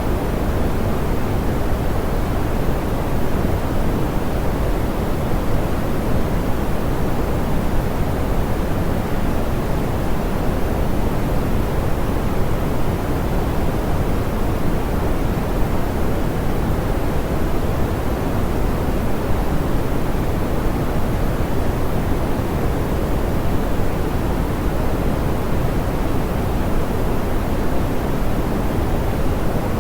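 Steady, smoothed pink noise: an even, unchanging hiss weighted toward the low and middle range, dull and soft in the highs.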